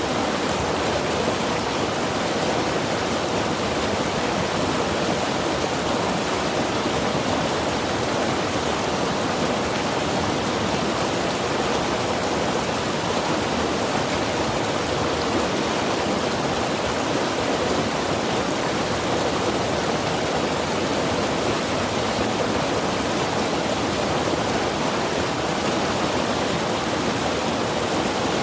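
Mountain river rushing steadily over rocks, a constant even roar of flowing water with no breaks.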